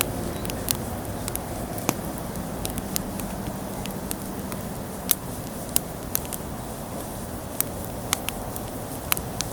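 Wood fire burning: irregular sharp crackles and pops of the burning wood over a steady low rumble of the flames, the loudest pop about five seconds in.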